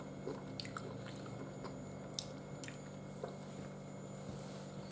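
Faint, soft wet chewing and small mouth clicks of a person eating Turkish delight, with a bite into a piece near the end. A low steady hum sits underneath.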